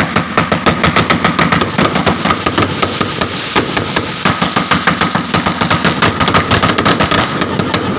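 A long string of firecrackers going off in rapid succession, a dense, continuous crackle of many small bangs each second.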